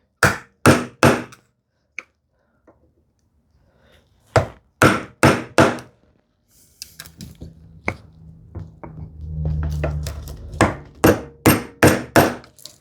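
Mallet blows driving a bevel-edge chisel down into a hardwood leg to chop a mortise. The strikes come in quick runs of three to five, with pauses between, and a low hum sits under the middle pause.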